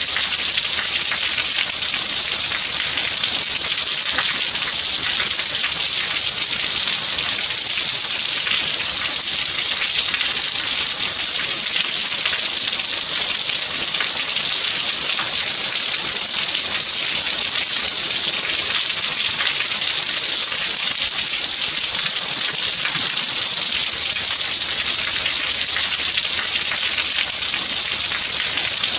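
Steady rain, an even high hiss with the fine patter of many drops.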